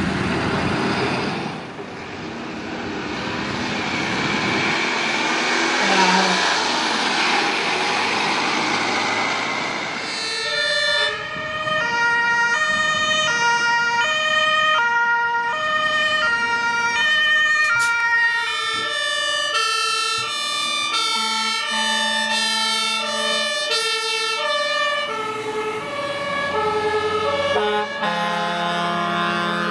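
German two-tone emergency siren (Martinshorn) on a fire truck, switching back and forth between two pitches at a steady pace. A second two-tone siren at different pitches joins it about two-thirds of the way in. It is preceded by a loud rushing vehicle noise during roughly the first third.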